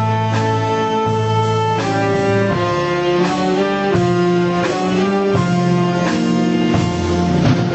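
Big band playing a slow ballad live, with held melody notes moving step by step over a steady bass line.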